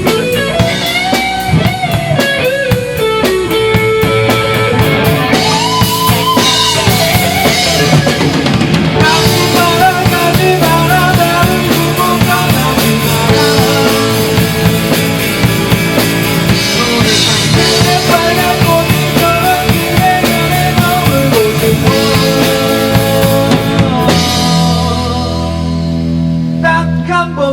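Live rock band playing an instrumental passage: drum kit and bass under an electric guitar lead line with bending notes. The drums drop out near the end.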